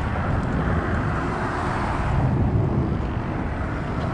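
Steady rumble of road traffic on the causeway, swelling slightly about two seconds in.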